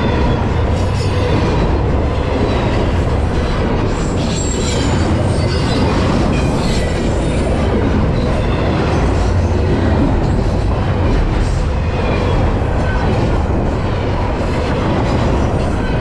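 Loaded double-stack intermodal well cars rolling past close by: a steady, loud rumble and clatter of steel wheels on rail. Short, high wheel squeals come and go, most of them a few seconds in.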